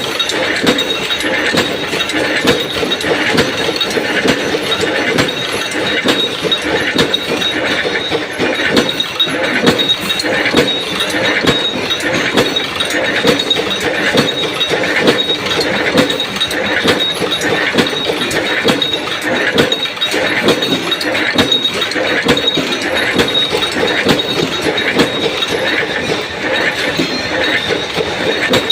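Punch press running continuously, stamping out steel washers in a steady rhythm of strokes, with metal clattering and clinking throughout.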